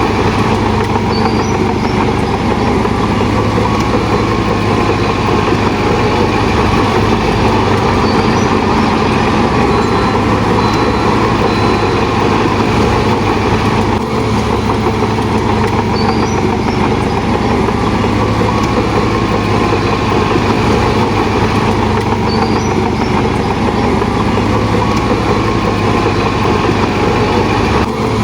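Heavy diesel engine of a Shantui DH17 bulldozer running steadily, with faint high squeaks now and then.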